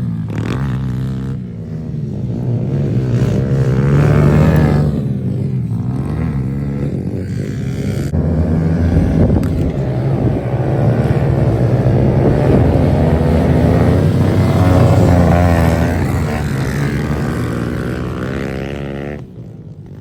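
Pit bike engine revving as it rides the track, its note rising and falling again and again with the throttle, dropping away near the end.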